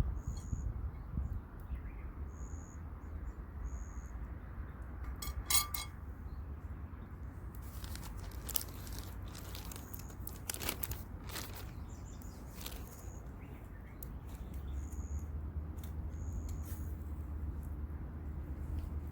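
A bird giving short, high chirps several times over a steady low rumble, with scattered clicks and crackles through the middle.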